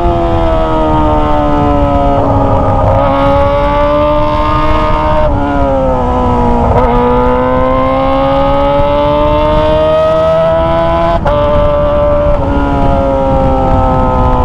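Kawasaki ZX-25R's 250 cc inline-four running loud through a Toce aftermarket exhaust while being ridden. Its pitch sags and climbs with the throttle and drops sharply at gear changes, once about five and a half seconds in and again about eleven seconds in.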